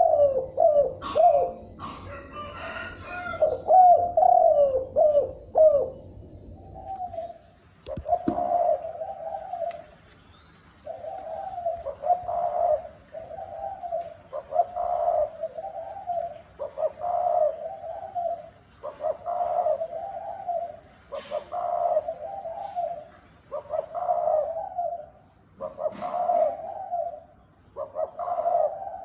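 Spotted dove cooing. First comes a quick run of short, bending coos, then from about eight seconds in a steady series of repeated coo phrases, one every couple of seconds.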